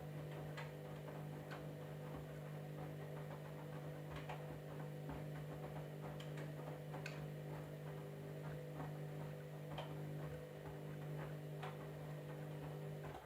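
Candy washing machine running: a steady low hum with irregular light clicks and ticks over it. It cuts off abruptly near the end.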